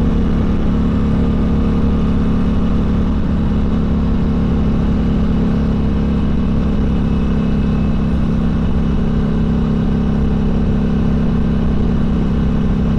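Harley-Davidson Sportster Seventy-Two's air-cooled V-twin engine running steadily while the bike cruises along a road, its exhaust note even throughout.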